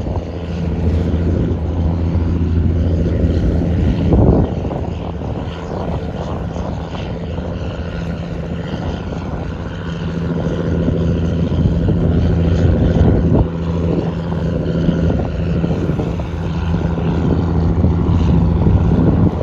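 Fishing boat's diesel engine running steadily with a low drone.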